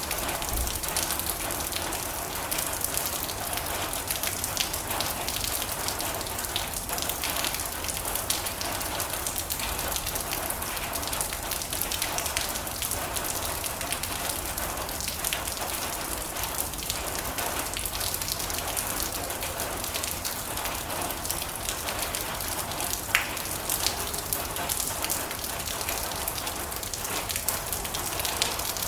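Steady rain drumming on a metal roof: a dense patter of many small drop impacts, with a slightly louder single tick about 23 seconds in.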